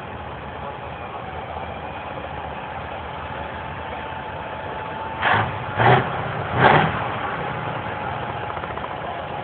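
Truck engine running steadily, broken about five seconds in by three short, loud noisy bursts in quick succession.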